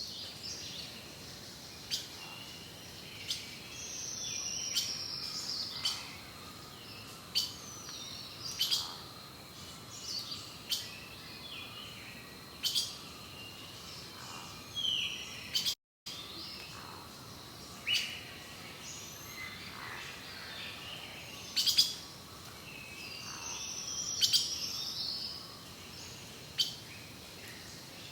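Birds chirping and calling: many short, sharp chirps and a few falling whistled notes, over a faint steady hiss. The sound cuts out completely for a moment about halfway through.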